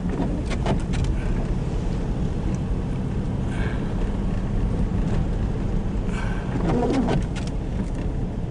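Car cabin noise while driving: a steady low rumble of engine and tyres, with a few sharp clicks about a second in and short squeaks in the second half.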